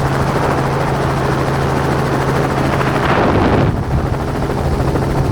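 Helicopter in flight: a steady rotor and engine drone, swelling slightly about three seconds in and easing back a moment later.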